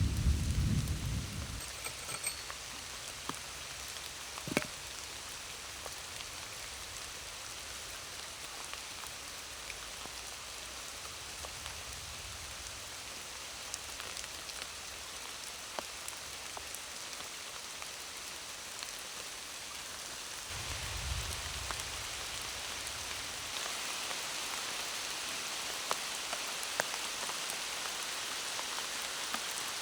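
Heavy rain falling steadily, an even hiss with scattered drops ticking. A rumble of thunder fades out in the first second or so, another low rumble comes about two-thirds of the way in, and after it the rain grows a little louder.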